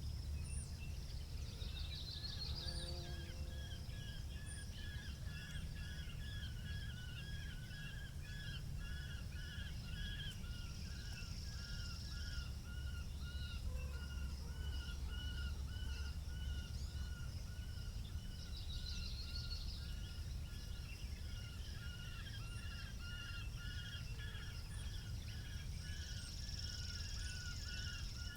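Small birds chirping in short repeated notes, a few a second, over a steady low rumble of wind, with a brief higher trill twice.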